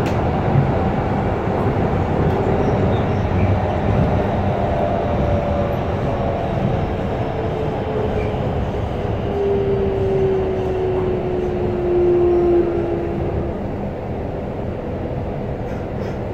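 A train running steadily, with a continuous rumble and a faint whine that slowly falls in pitch towards the middle.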